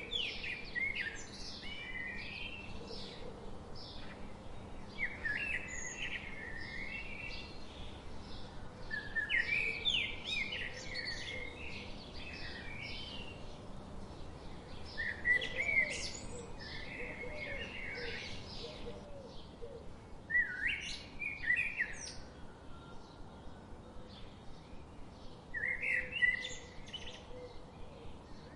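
A songbird singing short, warbling phrases, one roughly every five seconds, over a faint steady background hum.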